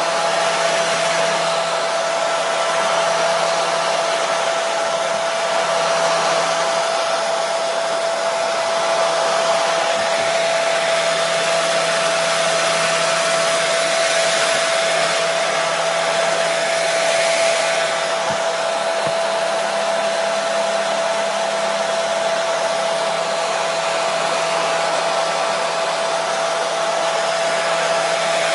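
Hair dryer running steadily: an even blowing hiss with a steady whine from its fan motor and a low hum underneath.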